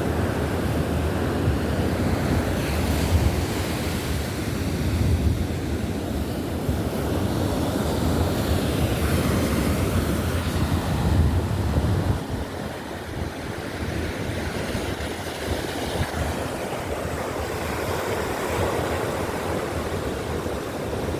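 Baltic Sea surf washing onto the beach, with wind buffeting the microphone; the low wind rumble eases about twelve seconds in.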